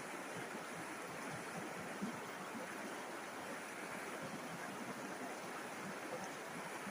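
A river flowing: a steady rush of water with small splashes and gurgles scattered through it.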